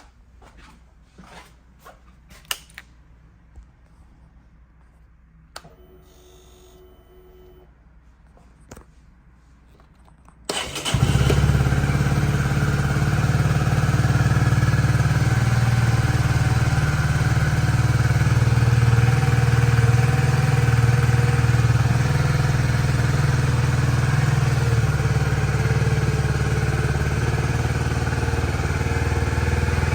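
A few light clicks and knocks, then about ten seconds in the Honda CB125R's 125cc single-cylinder engine starts and settles into a steady idle.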